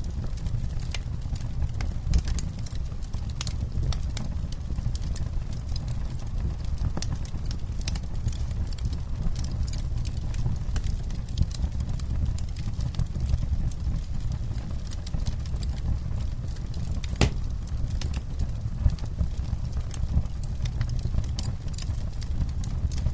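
Campfire crackling: a steady low rumble of burning with frequent sharp pops and snaps, one louder pop about seventeen seconds in.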